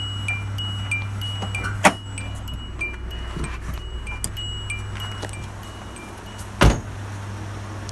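Car's warning chime beeping about three times a second, stopping with a click about two seconds in; a loud knock follows near the end over a steady low hum.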